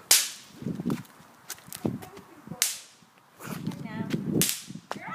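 Small firecrackers going off: three sharp cracks, one at the start, one about two and a half seconds in and one near the end, each ringing briefly, with fainter snaps between them.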